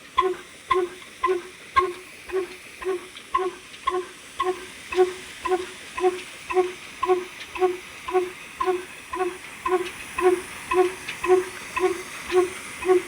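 Old diesel engine running slowly and evenly, a regular exhaust puff about twice a second, with a faint hiss that grows a little louder near the end.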